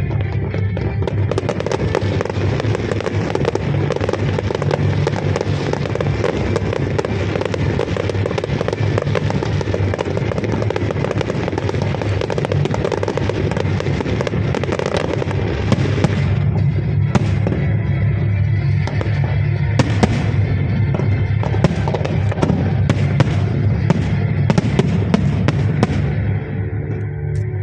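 Fireworks going off without pause, a dense crackling and popping, with many sharp separate cracks from about sixteen seconds in, over music.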